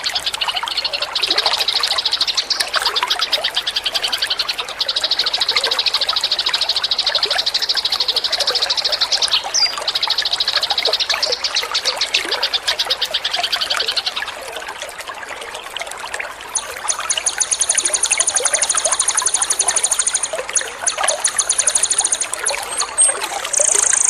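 Water trickling steadily under a songbird's rapid, buzzing trills. A long high trill runs for about the first fourteen seconds; after a short lull, even higher trills follow in the last third.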